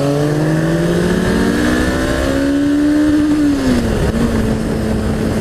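Honda CBR500 parallel-twin motorcycle engine accelerating hard, its pitch climbing for about three and a half seconds, then dropping and running steady. Wind noise rushes underneath.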